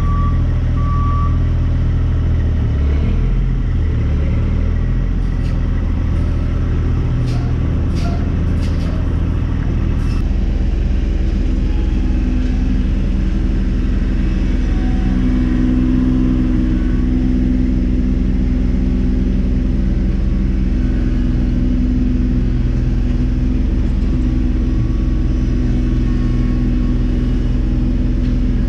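Diesel engine running steadily during dirt loading, with a few sharp knocks in the first ten seconds and two short beeps at the start.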